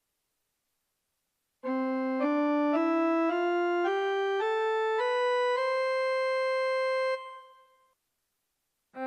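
Casio LK-350 electronic keyboard playing a rising one-octave scale of eight notes after about a second and a half of silence. The top note is held and then fades away.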